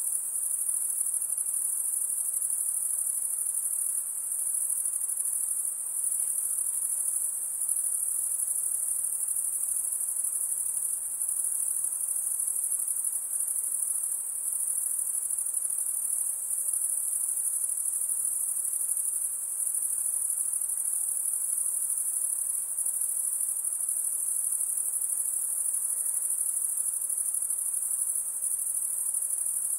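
Insects calling in a steady, high-pitched, unbroken drone.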